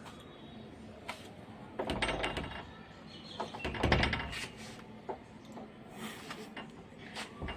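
Knocks and clatter of a door and objects being handled, with the loudest bursts about two and four seconds in and a few lighter clicks after.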